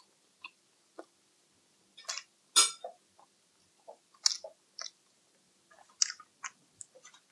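Close-miked chewing and wet mouth smacks of someone eating saucy baby back ribs, in short irregular bursts, the loudest about two and a half seconds in and again a little after four seconds.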